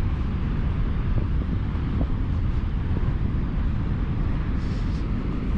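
Strong wind buffeting the microphone as a steady low rumble, over the rush of heavy surf.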